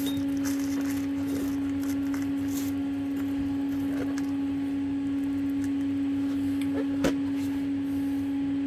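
A steady machine hum on one low, constant pitch, with a few faint clicks and one sharp click about seven seconds in.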